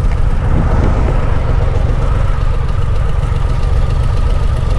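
Harley-Davidson motorcycle's V-twin engine running steadily on the road, a loud, steady low rumble.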